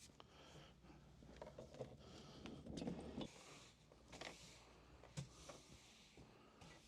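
Faint scattered knocks, clicks and rustling of objects being handled and moved during a room cleanup, with a slightly louder scuffing patch about three seconds in.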